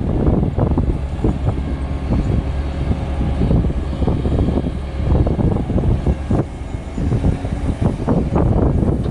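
Heavy diesel machinery working, an excavator's engine running steadily under frequent irregular knocks and clanks.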